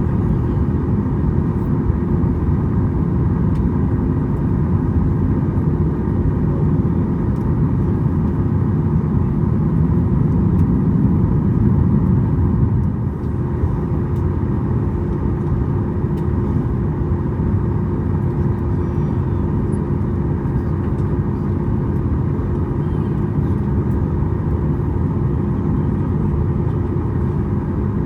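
Cabin noise of a Boeing 737 MAX taxiing: a steady low rumble from its CFM LEAP-1B engines at low thrust and the undercarriage rolling, with a constant hum. It eases slightly about thirteen seconds in.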